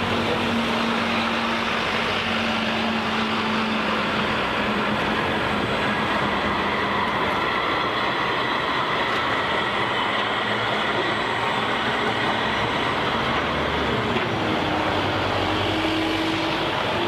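Edinburgh tram running along a city street: a steady running noise with faint whining tones. One tone glides down in pitch near the end.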